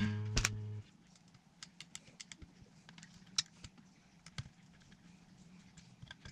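A low note on a newly built Effonia Stellar electric guitar rings and is cut off short, muted, just under a second in. Scattered light clicks and taps follow, handling noise from fingers and the instrument.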